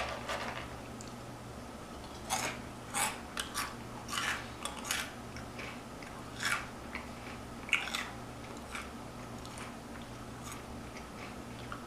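Close-up chewing and crunching of Flaming Hot Cheetos: a run of short, irregular crunches in the first three-quarters, fading to quiet chewing near the end, over a faint steady hum.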